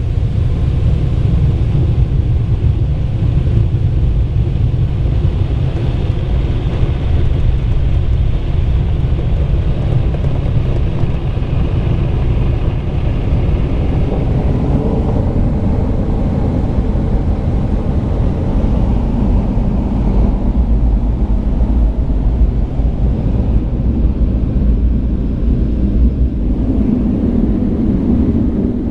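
Mark VII ChoiceWash XT automatic car wash machinery running, heard from inside the car: a loud, steady rumble that shifts in tone about halfway through and again near the end.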